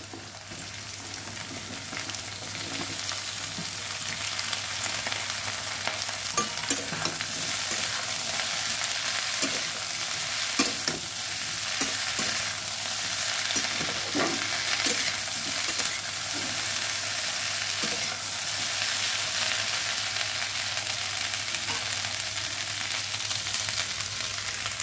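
Chopped okra and potato sticks sizzling in hot oil in a metal kadhai, the hiss swelling in the first couple of seconds after they go in. A metal spatula stirs them, scraping and clicking against the pan now and then.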